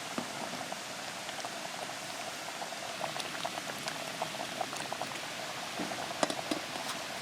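A pot of thick, soup-like stew bubbling on a camp burner, close to done. Many small irregular pops from bursting bubbles sound over a steady hiss.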